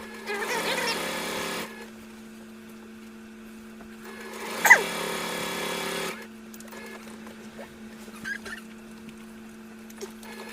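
Electric sewing machine stitching in two short runs, one of about a second near the start and one of nearly two seconds in the middle, with a sharp click at the start of the second run, over a steady hum.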